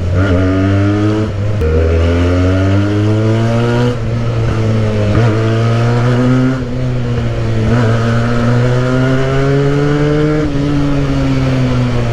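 Benelli motorcycle with a modified exhaust, accelerating while riding: the engine note climbs in pitch and drops back at each of three gear changes, then falls away as it eases off near the end.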